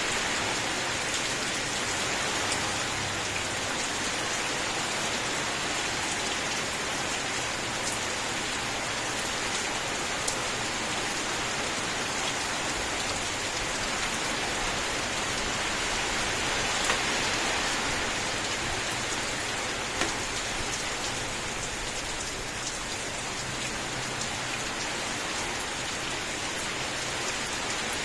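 Steady rain falling, with a few sharper single drop hits standing out now and then.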